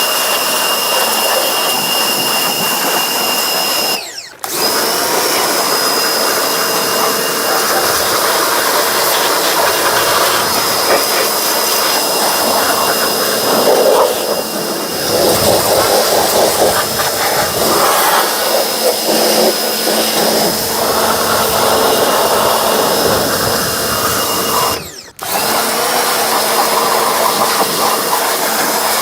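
Pressure washer (jet wash) running continuously, a steady motor-and-pump whine over the hiss of the water spray. It cuts out and picks up again twice, about four seconds in and near the end.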